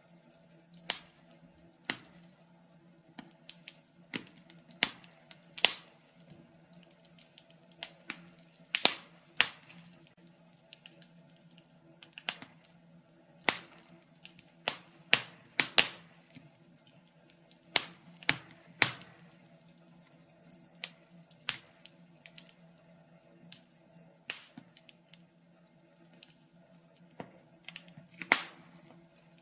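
Wood fire crackling in a fireplace: irregular sharp pops and snaps, some louder than others and at times several a second, over a faint steady low hum.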